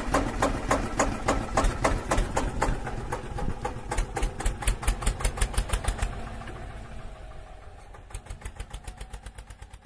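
Miniature engine of a DIY model water pump running with a steady knocking beat, about four or five knocks a second. It fades down through the middle and picks up again faintly near the end.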